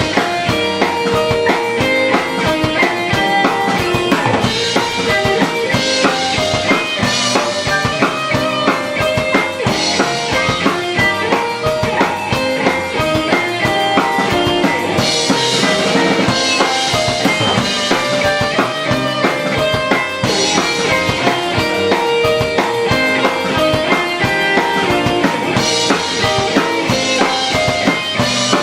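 A band playing live on drum kit and guitar, with bright cymbal splashes every few seconds.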